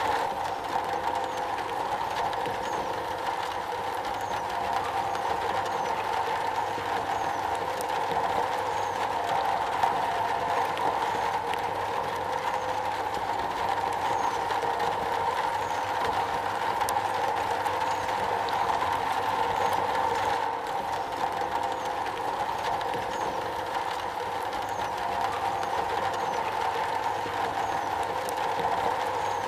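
Rain falling steadily on a metal roof, a dense, even patter with no let-up.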